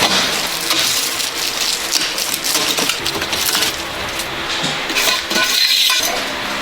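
Light metallic clinking and clattering: many small metal knocks in quick, irregular succession.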